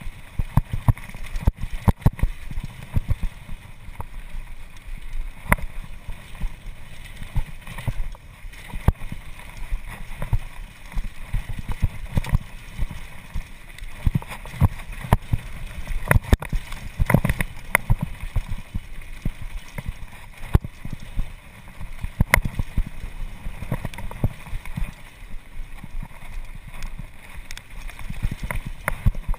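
Mountain bike running down a rough dirt downhill trail: a constant low rumble with frequent sharp clacks and knocks as the bike rattles over bumps.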